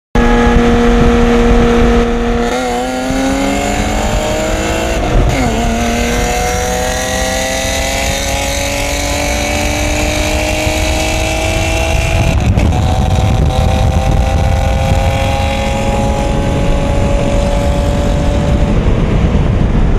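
Two cars racing from a 40 mph roll, heard from inside the cabin of a turbocharged SR20 Nissan 240SX with a straight-piped BMW E36 M3 alongside. The engines hold a steady note for about two seconds, then climb in pitch under full acceleration, dipping at gear shifts about five and twelve seconds in, over loud road and wind noise.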